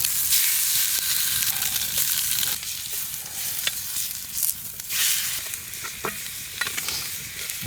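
Pike fillet frying in hot olive oil in a pan over a campfire: a steady sizzle that starts suddenly just after the fish goes in and is loudest for the first couple of seconds, swells again about five seconds in, with a few light clicks.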